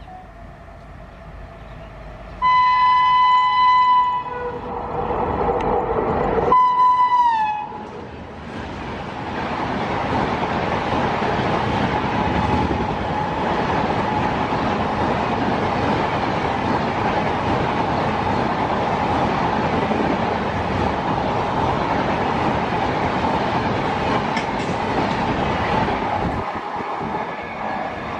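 Indian express train sounding its horn twice, the second blast dropping in pitch at its end, then passing at speed with a long, loud, steady rush that eases off near the end.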